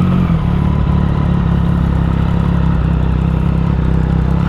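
Motorcycle engine idling steadily, its note settling a little lower just after the start.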